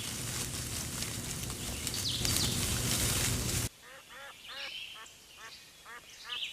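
A loud rushing noise that cuts off suddenly after about three and a half seconds, followed by a quick series of short, repeated bird calls.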